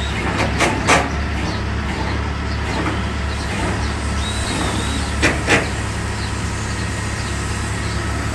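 Engine idling with a steady low drone, with two pairs of sharp knocks, one about a second in and another about five seconds in.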